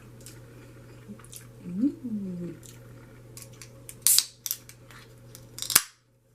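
Close-up mukbang eating sounds: crisp, sharp crunching and wet mouth smacks from chewing, with a short hummed "mm" rising and falling in pitch about two seconds in. The sound cuts off abruptly near the end.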